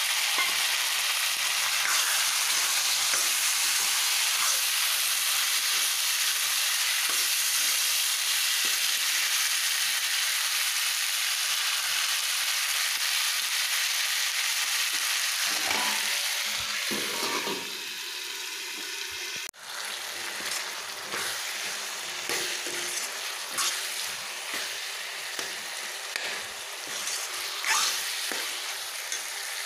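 Potatoes and green peas frying in hot oil in a metal kadai, with a steady loud sizzle. About two-thirds of the way in the sizzle drops off suddenly and goes on more quietly, with light ticks and scrapes of a steel spatula stirring the vegetables in the pan.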